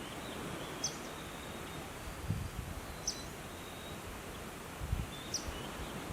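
Outdoor nature ambience: a steady hiss of background noise with a short high bird chirp repeating three times, about every two and a half seconds, over faint thin whistles. A few soft low thumps come in between.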